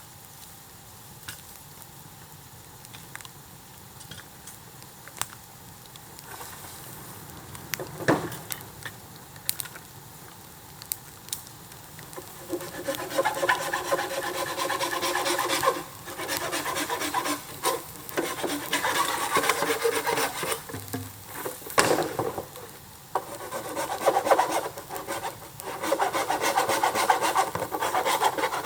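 A hand saw cutting bamboo. It starts fairly quiet with scattered sharp clicks, then from about halfway in comes in long runs of rasping strokes with short pauses between them.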